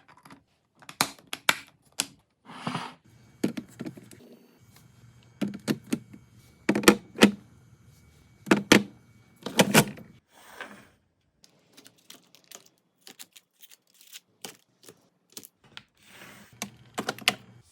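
Food items and storage containers being set down and arranged on refrigerator shelves: a string of irregular taps, clicks and knocks with a few brief rustles, the heaviest knocks coming in the middle.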